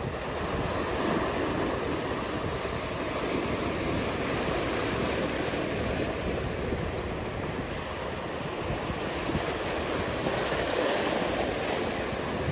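Ocean surf: a steady rushing wash of breaking waves, swelling slightly about a second in and again near the end.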